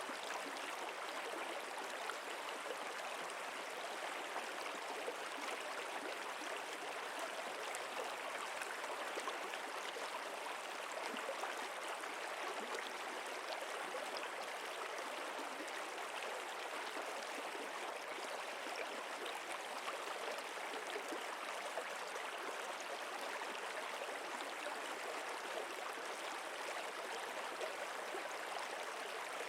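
Running water of a stream, a steady even rush with no break or change.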